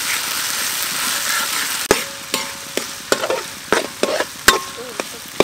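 Shallots and chili paste sizzling in oil in a steel wok, steady at first. About two seconds in the sizzle drops and a metal spatula knocks and scrapes against the wok several times, some strokes leaving a brief metallic ring.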